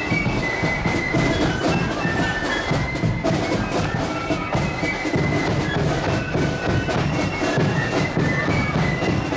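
Marching band playing a tune on high-pitched wind instruments over a steady beat of drums.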